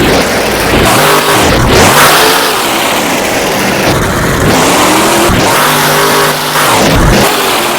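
Monster truck's supercharged V8 engine revving hard, its pitch climbing and dropping again and again as the throttle is blipped and released.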